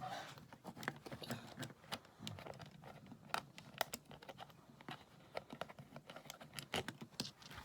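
Irregular light clicks and taps, several a second, of small parts being handled: a cross-head screwdriver working a small bolt on a plastic toy motorcycle.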